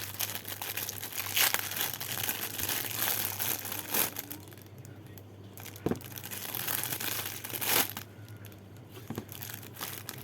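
Packaging being handled and unwrapped, crinkling and rustling irregularly, with a few louder crackles.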